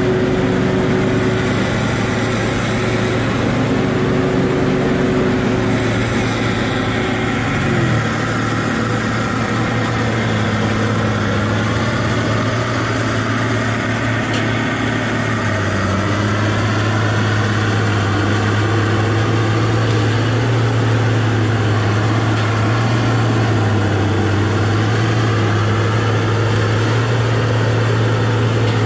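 Tigercat rubber-tired feller buncher's diesel engine running steadily, with a wavering whine above it; the engine note shifts about eight seconds in and then holds.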